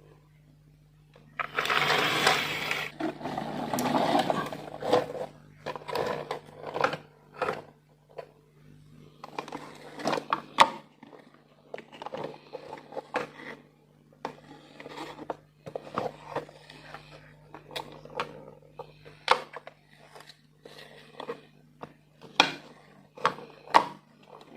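Marbles rolling and clattering down a plastic marble run: stretches of rattling roll broken by many irregular clicks and knocks, over a steady low hum.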